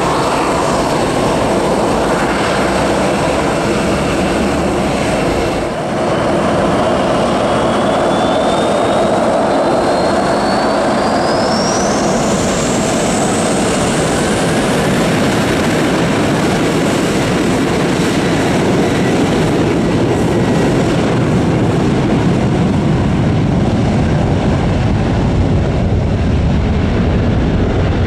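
Jet airliner engines running at high power, a loud steady roar with a whine that climbs steadily in pitch through the middle of the stretch and then holds high: the engines spooling up toward takeoff thrust.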